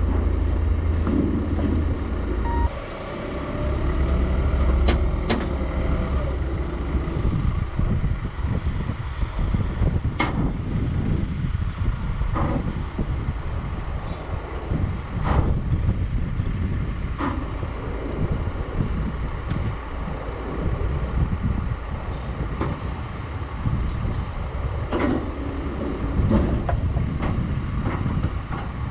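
Heavy vehicle engine running with a steady low rumble, with sharp knocks and clanks every few seconds.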